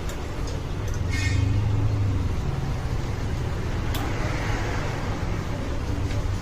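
An engine running steadily with a low hum, louder for a second or so about a second in, with a sharp click about four seconds in.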